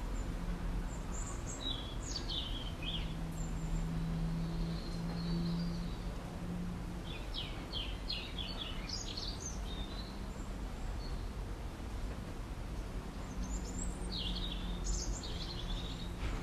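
Small garden birds chirping and twittering in three short spells, about a second in, midway and near the end, over a steady low background hum.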